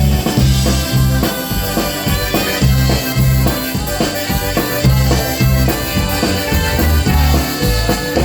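A polka brass band playing live through an instrumental passage with no singing, over a steady bass line and drum beat.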